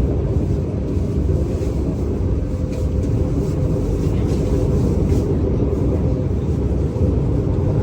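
Steady low rumble of a moving vehicle, with a faint steady hum and a few light clicks over it.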